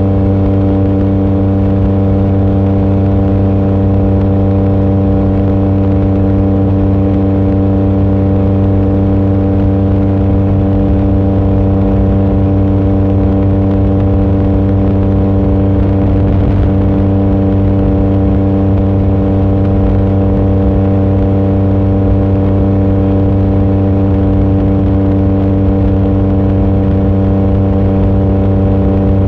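Yamaha MT-09 SP's 890 cc inline-three engine running at a constant speed through an aftermarket exhaust with its baffle removed, holding one steady pitch while the bike is ridden.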